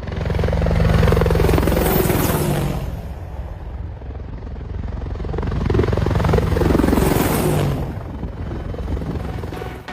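Helicopter flying past twice: the rotor chop swells up and fades away, then swells and fades again.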